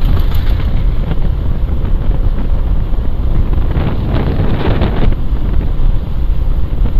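Wind buffeting a helmet-mounted microphone on a moving motorcycle, a steady low rush with the bike's running noise under it.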